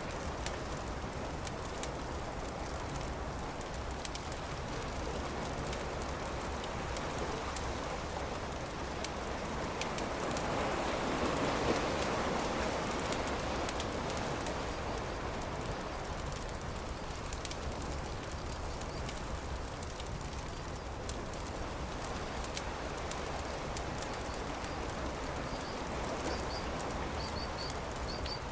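Campfire crackling and popping over a steady wash of surf, which swells for a few seconds about halfway through. A few short high bird chirps come near the end.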